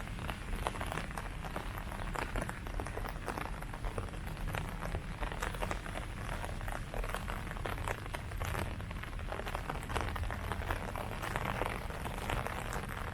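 Steady rain falling on leaves, with many close, irregular drop patters over a continuous hiss.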